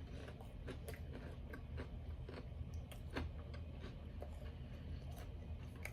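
Close-up chewing of chicken nuggets: irregular small mouth clicks and smacks.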